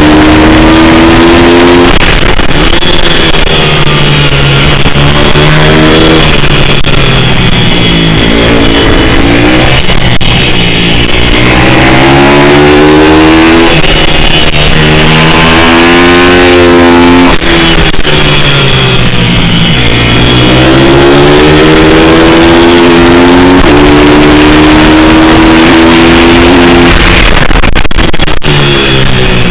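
Pit bike's single-cylinder four-stroke engine revving hard through a lap. The pitch climbs under throttle and falls away into corners every few seconds, with sharp drops at gear changes. It is very loud and close to the microphone.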